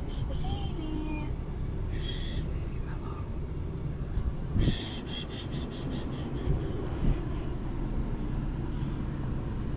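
A car running, heard from inside the cabin as a steady low rumble, with a few brief higher sounds about two and five seconds in.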